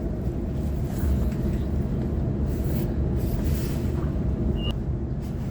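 Steady low rumble inside the carriage of a Waratah electric train, with a brief high-pitched tone about four and a half seconds in.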